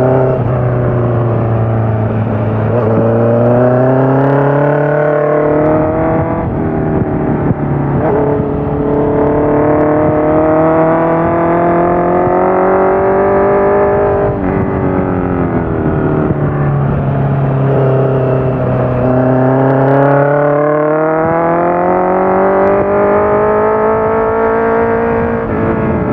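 Honda CBR650F inline-four engine running through a full Akrapovic exhaust with the dB killer in. The pitch climbs steadily over several seconds, then drops back sharply, as at a gear change, about five times over.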